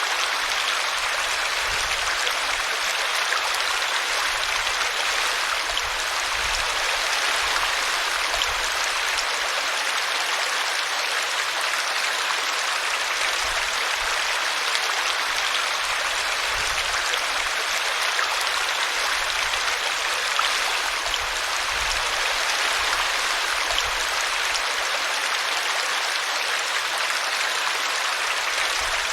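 Small brook tumbling over a tree root: a steady, even rush and splash of flowing water.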